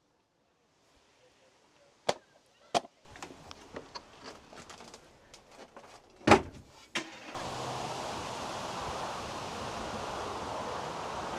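Several sharp knocks and light clatter of things being handled, then a steady rushing noise with a low hum that starts abruptly about seven seconds in.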